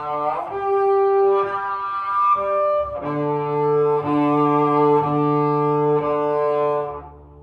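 Double bass, bowed, and bass clarinet playing long held notes in a free improvisation. The notes change about half a second and three seconds in, and the sound fades away shortly before the end.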